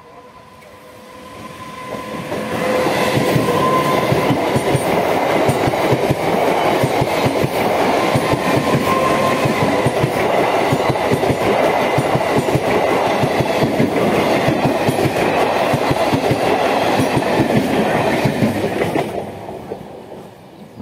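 Electric multiple-unit (EMU) local train passing at speed. Its wheels clatter rapidly over the rail joints. The sound builds up in about two seconds and holds as a dense, loud clatter for some sixteen seconds. It then fades as the last coaches go by.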